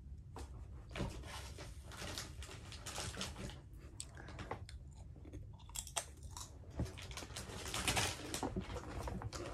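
Tortilla chips being chewed close to the microphone: irregular crunching, densest about three-quarters of the way through.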